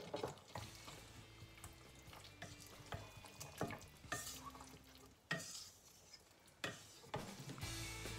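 Wooden spatula stirring pieces of pork belly in sauce in a stainless steel pot, with irregular scrapes and light knocks against the pot.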